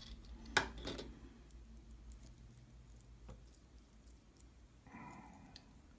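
Small metal lock parts being handled: one sharp click about half a second in, then scattered faint ticks as the pin stacks and plug of a disassembled pin-tumbler lock are moved about.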